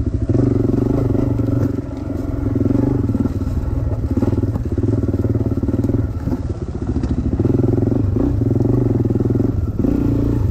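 Dirt bike engine being ridden, revs rising and dropping every second or two as the throttle opens and closes.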